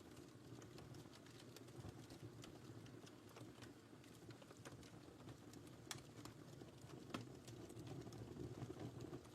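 Quiet wood fire in a fireplace crackling, with scattered sharp pops over a low, steady rumble of the flames; the sharpest pops come about six and seven seconds in.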